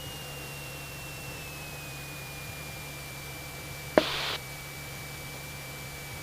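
Steady hiss of the Cessna 172SP's cockpit intercom and radio audio, with the engine a faint low drone under it and a thin whine that slowly falls in pitch. About four seconds in, a click with a short burst of hiss, like a radio being keyed or its squelch breaking.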